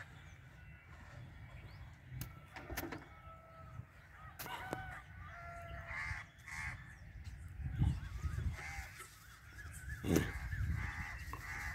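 Birds calling faintly, short whistled and wavering calls scattered through, with a few sharp knocks and clicks in between.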